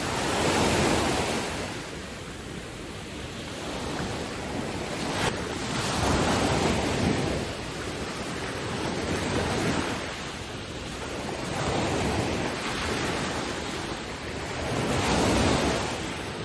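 Ocean waves breaking and washing ashore, the surf swelling and fading in slow surges every four to five seconds.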